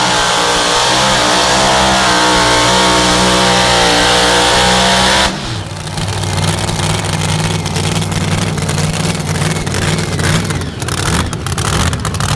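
A truck or tractor pulling machine's engine at full throttle under heavy load. About five seconds in the throttle snaps shut: the hiss drops away and the engine runs on at a lower note with sharp crackling.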